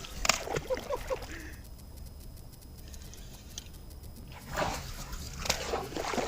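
Water splashing and sloshing beside a kayak as a hooked bass thrashes at the surface, in two spells: one in the first second and a half and another from about four and a half seconds to the end.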